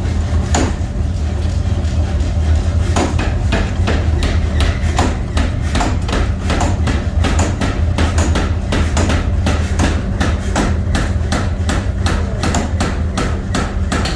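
Hammer blows on steel, forging nut blanks, over a steady low machine hum. The strikes come a few seconds apart at first, then quicken to about three a second.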